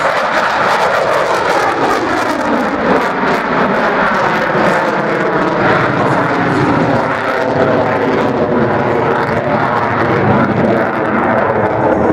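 F-22 Raptor fighter jet flying its display, twin jet engines loud and continuous, with the pitch shifting as the aircraft passes.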